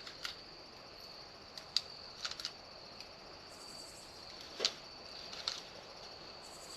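Light clicks and taps of a shooter handling gear at a shooting bench, scattered irregularly, over a steady faint high-pitched drone.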